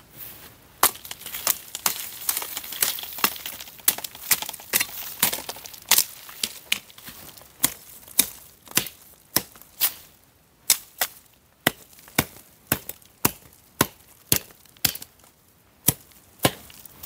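Dry wood being chopped by hand: a long run of sharp strokes, about two a second, with a few short pauses.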